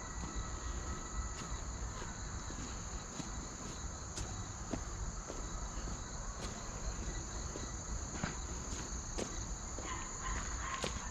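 Insects chirring in a steady, continuous high trill, with a few faint clicks scattered through.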